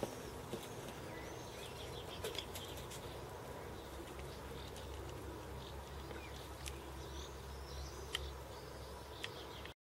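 Outdoor ambience with small birds chirping on and off, plus a few sharp clicks. The sound cuts off abruptly near the end.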